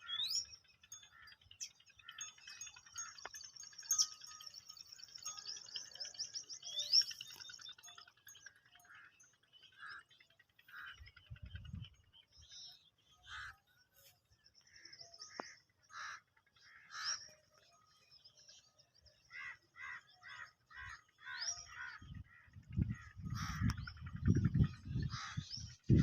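Several birds chirping and calling: short repeated notes, fast trills and quick rising whistles. A low rumble comes in briefly in the middle and again over the last few seconds.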